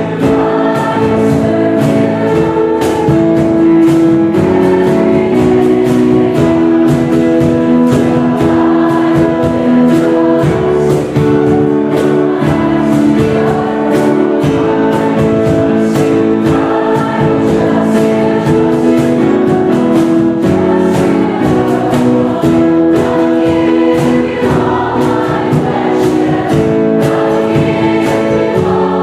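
A group of voices singing a worship song together over instrumental accompaniment, with a steady percussive beat.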